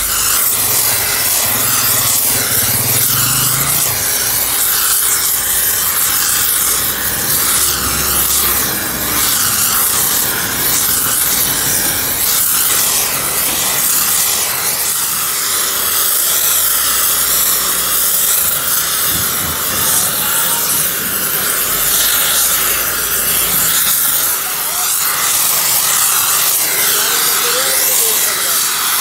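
Loud, steady hissing and rubbing noise of workshop metalworking, with no clear pitch of its own.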